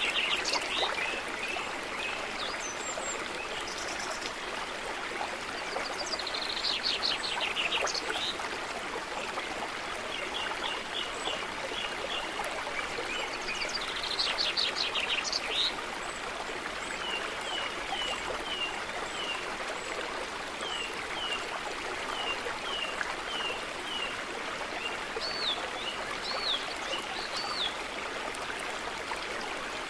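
A small stream running steadily, with songbirds singing over it: a quick trill about every seven seconds and runs of short, evenly repeated chirps.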